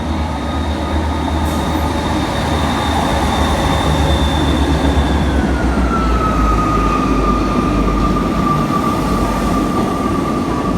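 Class 158 diesel multiple unit pulling away from the platform, its diesel engines running under power with a low rumble. A high steady whine drops a little in pitch about halfway through.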